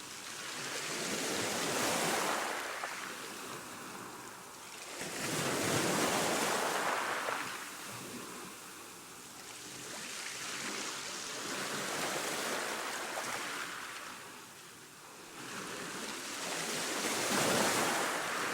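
Ocean surf: waves breaking and washing in, about four slow surges, each swelling and fading over a few seconds.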